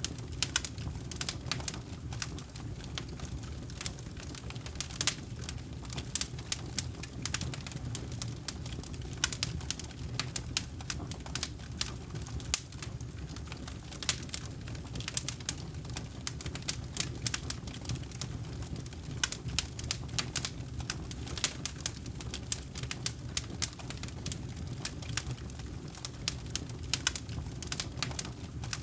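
Wood campfire burning, crackling with frequent irregular sharp pops and snaps over a steady low rumble of the flames.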